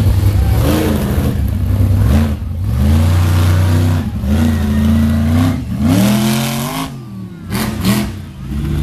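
Ballistic monster truck's engine revving hard, its pitch climbing and falling again and again as the driver works the throttle. The revs and loudness drop briefly about seven seconds in, then build again.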